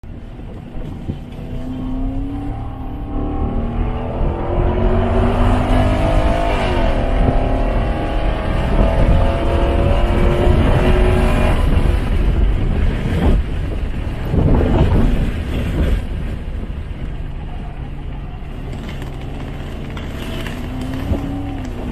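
Lexus SC400's 4.0-litre V8 heard from inside the cabin at full throttle, its note climbing for several seconds with a brief dip about seven seconds in. It falls away as the throttle is lifted around the twelve-second mark, then pulls steadily and climbs again near the end.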